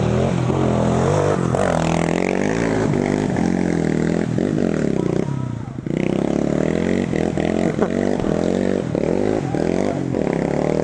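Yamaha TT-R230 dirt bike's single-cylinder four-stroke engine revving hard through a mud hole, its pitch rising and falling with the throttle. About halfway through it drops off for a moment, then picks up again.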